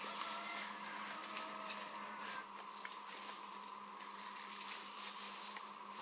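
Steady high-pitched insect chorus, like crickets or cicadas, with a constant shrill tone and a lower steady buzz, and a few faint ticks.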